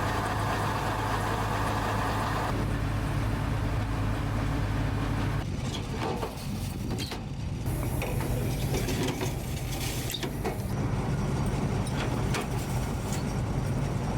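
Ka-52 attack helicopter's turbine engines and rotors running with a steady low hum, the sound shifting abruptly twice early on as the footage is cut together.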